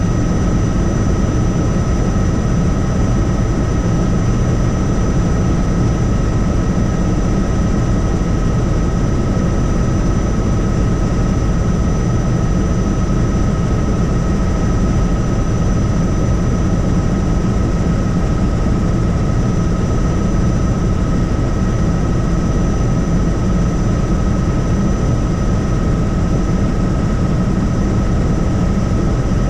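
Helicopter in steady flight: a constant loud rumble of engine and rotor with a steady high whine over it.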